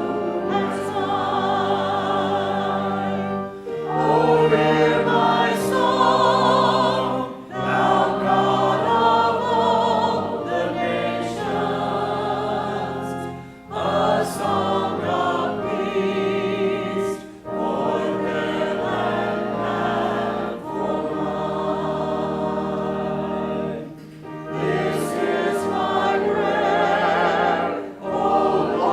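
Church congregation singing a hymn in unison over sustained instrumental accompaniment, phrase by phrase, with short breaks between lines.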